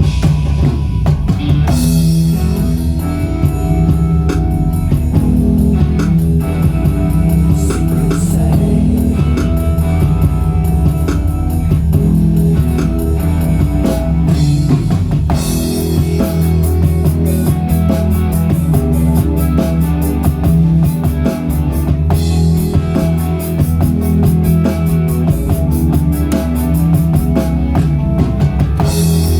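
Rock band playing live with no vocals: drum kit with cymbals, distorted electric guitar and bass, loud and steady, with cymbal crashes at about two seconds in, about halfway and near the end.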